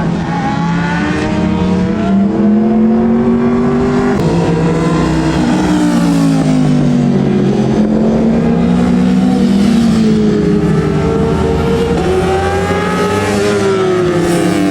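Superbike engines of 600 cc and up running hard on a race track, their pitch climbing and dropping repeatedly as they accelerate and slow.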